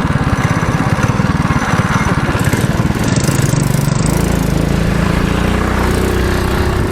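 Mini bike's small engine running under way, firing in a fast pulse at first and settling into a smoother, steadier note about four seconds in.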